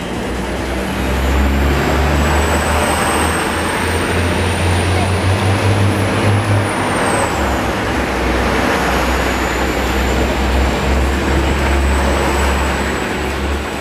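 Electric passenger train passing close along the platform track: a heavy rolling rumble with wheel and rail noise, and a high whine that drops in pitch about seven seconds in.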